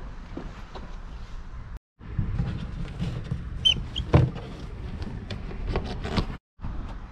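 Wind buffeting the microphone as a low rumble, with scattered knocks and clatter and a short squeak; the loudest knock comes about four seconds in.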